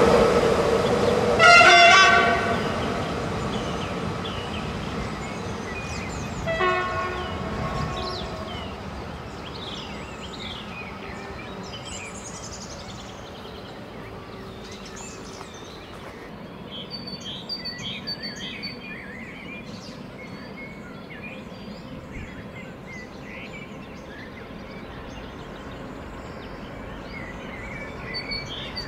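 A train passing and moving away, sounding its horn twice: a loud blast about two seconds in and a fainter one around seven seconds. The rumble of the train fades over the next several seconds, leaving birds chirping.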